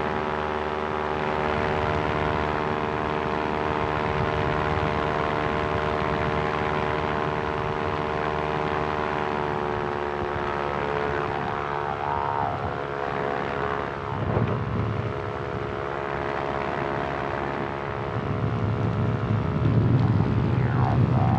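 Quicksilver ultralight's two-stroke engine and propeller running steadily in flight, the engine note easing down slightly about halfway through. A louder low rumble builds in the last few seconds.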